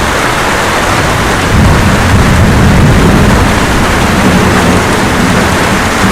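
Steady rain, with a low rumble of thunder that swells about a second and a half in and dies away over the next few seconds.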